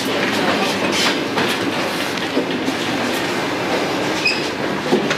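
Electric commuter train running, heard from inside the car: steady running noise with wheels clattering over rail joints and irregular knocks and rattles from the car body and gangway, and a short high squeal about four seconds in.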